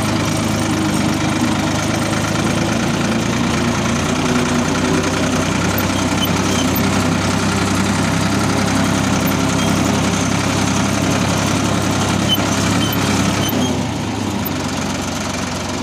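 Ford 3600 tractor engine running steadily while the tractor pulls a cultivator with the lift down, easing off a little near the end.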